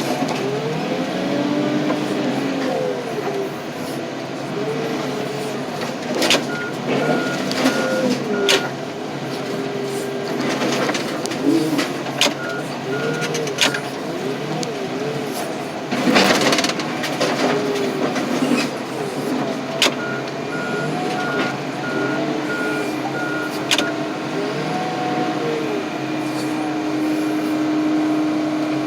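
Heavy diesel machinery at a car crusher running, engines revving up and down, with a reversing alarm beeping in several spells and repeated sharp cracks and bangs of steel truck frames, the loudest about sixteen seconds in.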